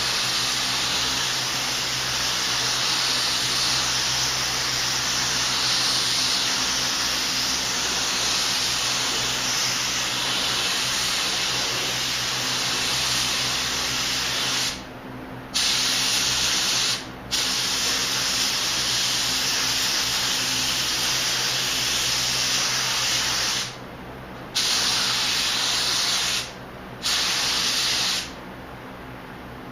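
Paint spray gun hissing steadily as it sprays primer, cut by four short breaks in the second half where the trigger is let go, and stopping near the end.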